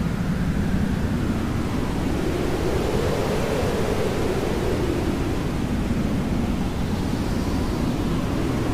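Hair dryer blowing steadily: a constant rush of air over a low hum that slowly drifts up and down in pitch.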